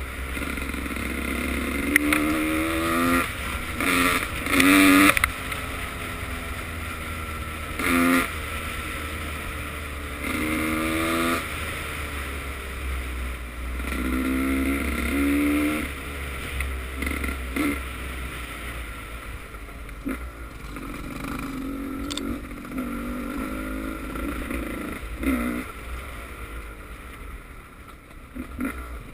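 Motocross bike engines revving hard in repeated bursts, each rising in pitch and breaking off as the gears change, with bikes passing, over a steady low rumble.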